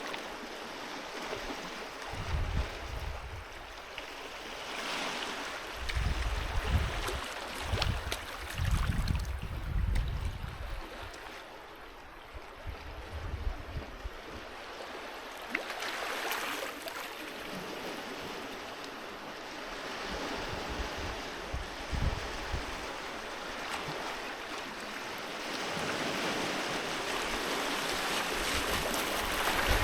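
Sea waves washing onto a beach, the surf swelling and falling back every several seconds. Low gusts of wind rumble on the microphone now and then.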